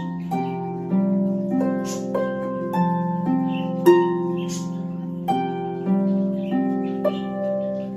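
Solo harp playing a slow minor-key melody over plucked bass chords, each note struck sharply and left to ring and decay.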